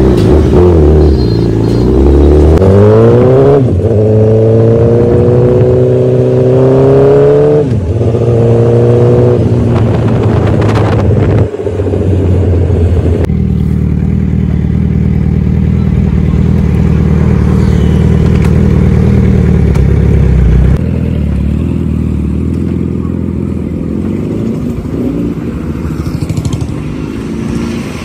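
Suzuki Hayabusa's inline-four engine accelerating through the gears: the pitch climbs and drops back at each upshift, three times in the first ten seconds or so. It then holds a steady pitch while cruising and settles to a lower steady note about two-thirds of the way through.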